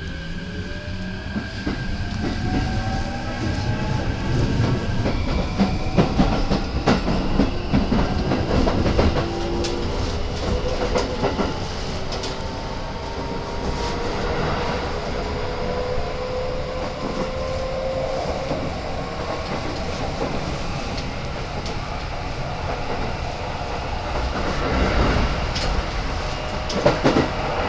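Keikyu 1000-series electric train pulling away and gathering speed, heard from inside a passenger car: the motor whine rises in pitch for the first eighteen seconds or so and then holds steady over the rumble of the wheels. Bursts of wheel clatter over rail joints come twice, about six seconds in and again near the end.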